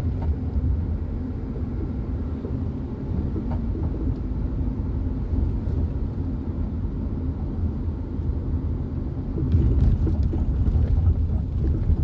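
Steady low rumble of a car being driven slowly, heard from inside the cabin: engine and tyre noise. It swells a little about ten seconds in.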